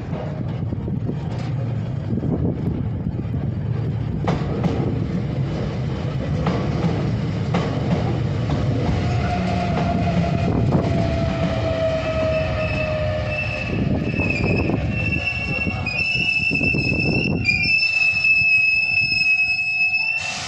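Hankyu electric train running along the platform, its wheels and bogies rumbling steadily. A whine falls in pitch through the middle, and high, steady wheel-squeal tones join in the last few seconds, then cut off at the very end.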